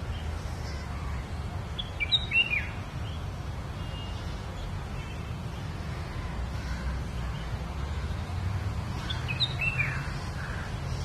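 Bulbul calling: a quick cluster of sharp chirping notes about two seconds in and another near the end, over a steady low rumble.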